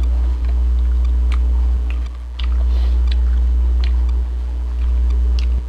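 Close-miked chewing of food, heard as scattered small clicks, over a steady low hum that is the loudest sound and dips in level a couple of times.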